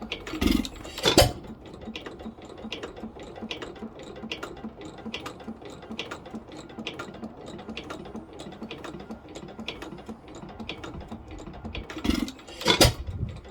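1912 Pilter YA stationary engine running, with a steady rapid clicking of about four a second. Two loud beats about a second in and two more near the end stand out over the clicking.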